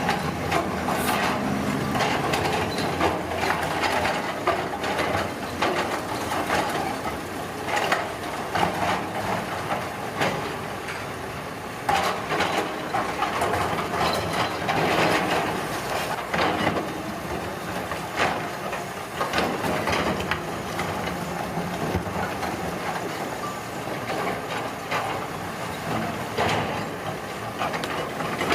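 Road construction machinery running, with a steady engine hum and frequent knocks and clatters.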